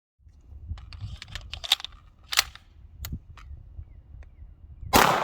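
Several sharp clicks and knocks of a 40mm launcher being handled over a low rumble, then one loud bang with a short ring near the end as it fires.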